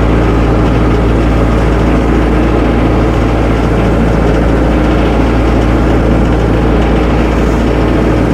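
Tractor engine running steadily while the tractor is driven back and forth.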